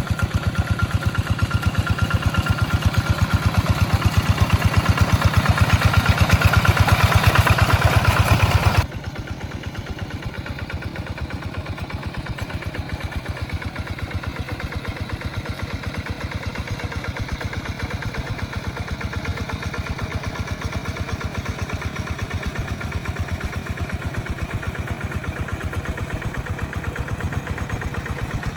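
Rice-field tractor engine running with an even, rhythmic chug. About nine seconds in it drops suddenly to a quieter, steady running.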